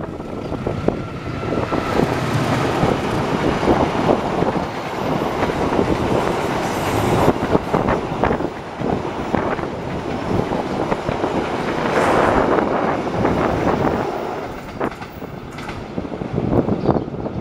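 Passenger train passing close by: a diesel-electric locomotive running under load, followed by the coaches' wheels clattering over the rails in a steady, loud rumble.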